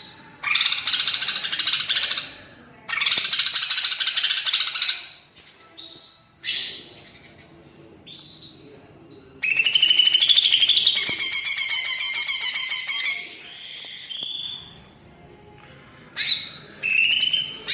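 A green leafbird (cucak ijo) singing loud, varied song phrases with its imitations of other birds' songs. Each phrase lasts one to two seconds, with short pauses between them, and a longer fast trill comes about halfway through.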